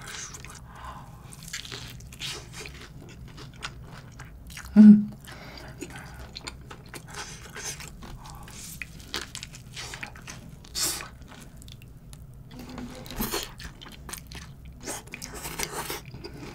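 A person biting and chewing a crispy fried chicken burger: short crunchy crackles of the fried coating between chews. There is one brief louder sound about five seconds in.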